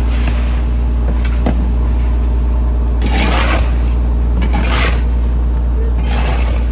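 Fishing trawler's diesel engine running with a steady low drone. Several short rushing noises rise over it, about three, five and six seconds in.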